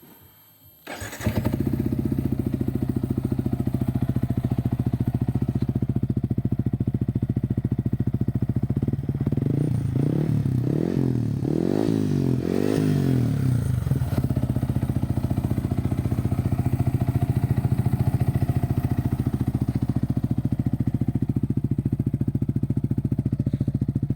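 Yamaha MT-15's 155 cc single-cylinder engine, breathing through an aftermarket HR Speed racing exhaust, starting up about a second in and settling into a steady idle. Several quick throttle blips come in the middle, rising and falling in pitch, before it drops back to idle.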